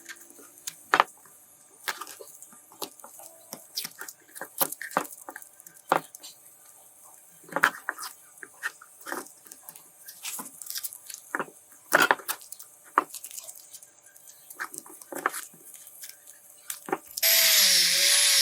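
Irregular clicks and taps of small hard parts being handled and worked on. About a second before the end, a small high-speed power tool starts up with a loud steady whine.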